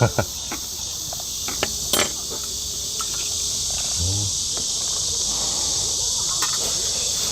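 Cicadas droning in a dense summer chorus, a steady high buzz that grows slowly louder, with a few light clicks over it.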